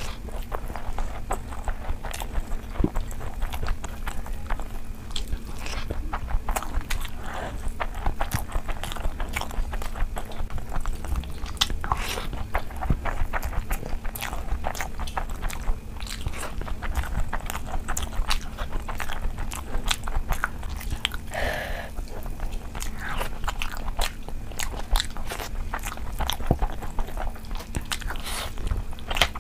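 Close-miked eating sounds: steady chewing and biting of rice and curry eaten by hand, with wet mouth clicks and occasional crunches.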